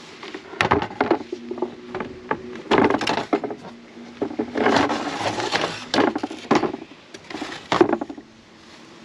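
Wooden parts being handled and worked by hand: a run of irregular knocks and short scrapes, stopping near the end.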